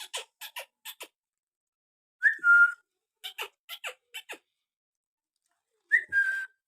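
Pet parrot making rapid short clicking squeaks, with two brief whistled calls that rise and then hold one pitch, about two seconds in and near the end.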